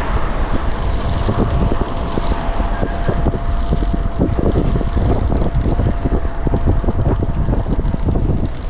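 Kugoo Kirin V3 Pro Plus electric bike riding over rough ground, with wind buffeting the microphone and a stream of rattles and knocks as the bike bumps along, plus a thin steady whine through the first half. The owner suspects the rattle comes from a loosely mounted controller jumping up and down while riding.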